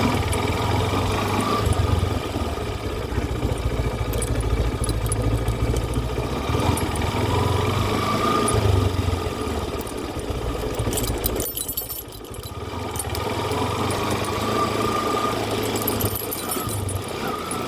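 An engine running steadily, dropping away briefly about twelve seconds in before picking up again.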